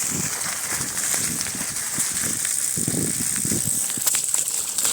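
Car tyres on a flooded road: a steady hiss of spray, with irregular splashes and crackles as the wheels go through standing water.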